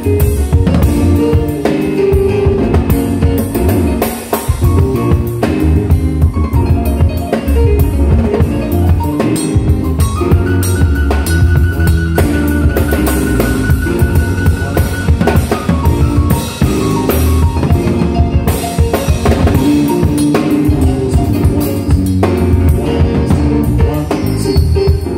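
Band music with a drum kit keeping a steady beat of kick, snare and rimshots under sustained instrumental notes, with a long held high note in the middle.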